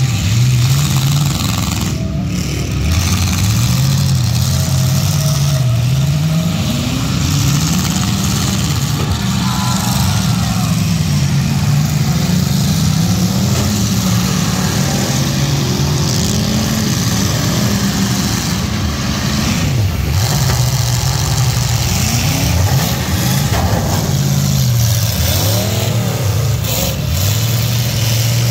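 Several demolition derby cars' engines revving, their pitches rising and falling as they drive and ram one another, with a few sharp bangs from collisions.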